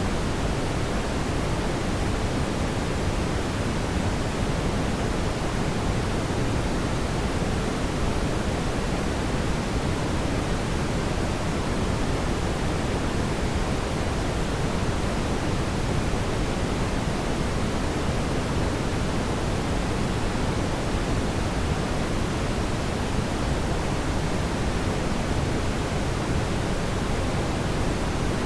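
Fireplace ambience: a steady, even rushing hiss of fire noise with no distinct crackles or pops.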